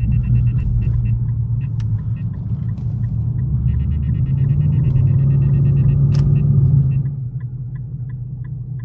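Straight-piped Infiniti M56's 5.6-litre V8 exhaust droning at steady cruise. About four seconds in it rises in pitch and gets louder, then eases off sharply about seven seconds in as the throttle is lifted.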